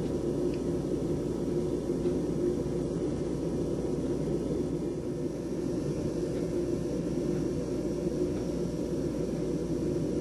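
Storm wind making a steady low rumble.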